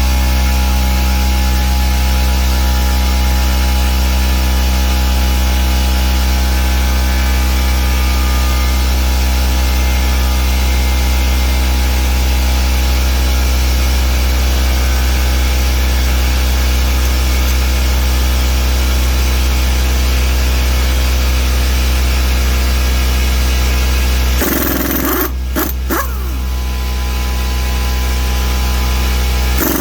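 A motor running at one constant pitch, a loud steady drone with a strong low hum; it dips and breaks up briefly about 25 seconds in, then carries on.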